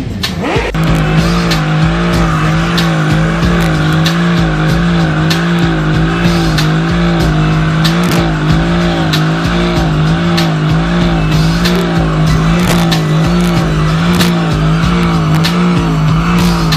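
Modified car engine held at steady high revs, its note wavering up and down in an even rhythm, with sharp crackles and pops throughout. It starts about a second in.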